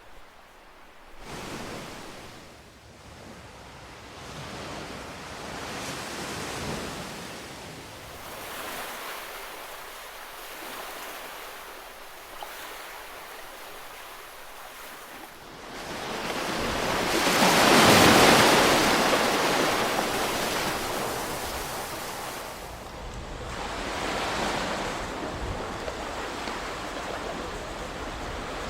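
Ocean waves breaking and washing up the shore in slow, uneven swells, with one much louder wave crashing about two-thirds of the way through.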